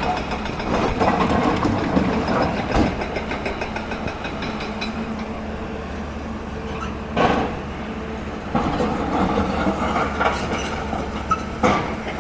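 Hyundai excavator running steadily, with clanking and clattering of stone throughout. Two sharp, loud crashes come about seven seconds in and near the end.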